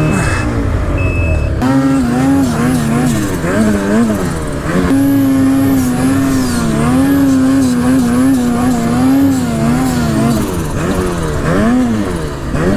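Snowmobile engine revving under heavy throttle, its pitch rising and falling as the throttle is worked, held high and fairly steady through the middle, then dipping and climbing quickly near the end.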